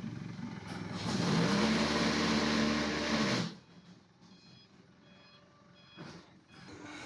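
Forklift working among the block stacks: its motor hums up, holds and drops away over a loud hiss for about two seconds, then cuts off sharply, followed by faint repeated reversing beeps.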